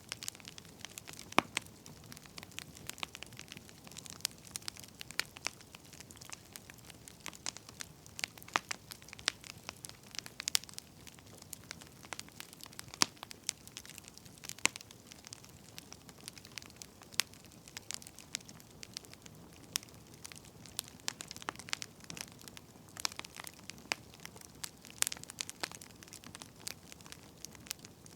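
Wood fire burning, crackling with many irregular sharp pops and snaps over a soft steady hiss.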